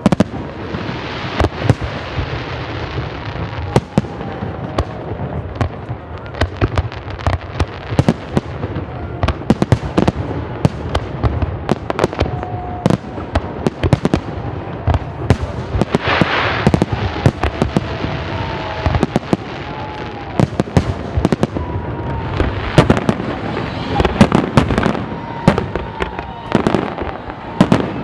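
Fireworks display: aerial shells bursting in rapid, overlapping bangs over a steady crackle, with the densest volleys about sixteen seconds in and again near the end.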